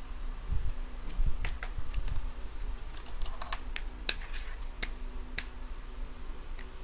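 Scattered small clicks and light taps of tools and small parts being handled on a repair bench, over a low steady hum.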